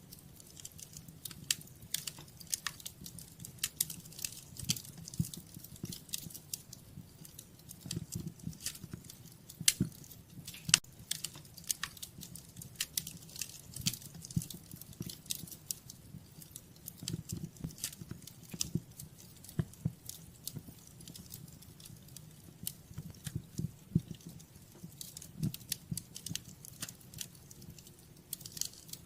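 Wood fire crackling in a fireplace: irregular sharp snaps and pops over a low, steady rumble, with a couple of louder snaps about ten seconds in.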